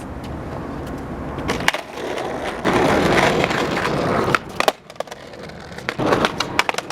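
Skateboard wheels rolling over rough pavement, louder and grittier about halfway through. Then come several sharp wooden clacks of the board against the ground, a few near the middle and a few more near the end.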